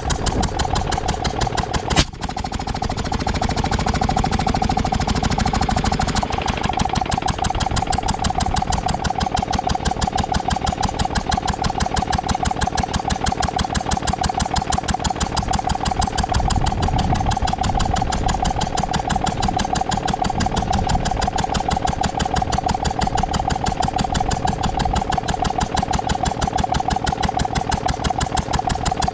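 Ruston & Hornsby 2PS petrol-engined portable air compressor running steadily with an even, rapid beat and a steady whine over it. A single sharp knock comes about two seconds in.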